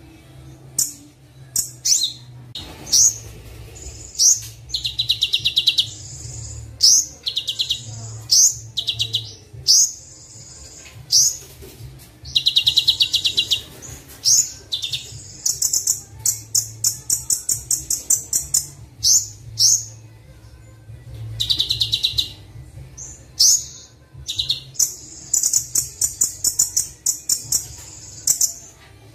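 A kolibri wulung sunbird singing a recorded training song: phrases of fast, high chirping trills and quick upswept notes, each a second or two long with short gaps between, over a steady low hum.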